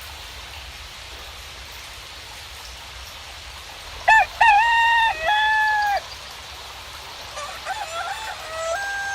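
Rooster crowing once, loud, about four seconds in, then crowing again more faintly starting near the end, over a steady hiss of rain.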